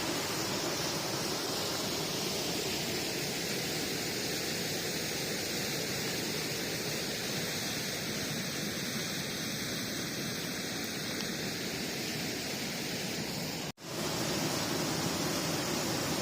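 Steady rushing noise with no distinct events, cut by a brief dropout to silence near the end.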